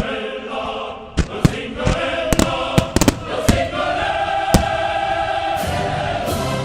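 Choral music with long held chords, with about a dozen sharp firework bangs scattered through the first four seconds or so.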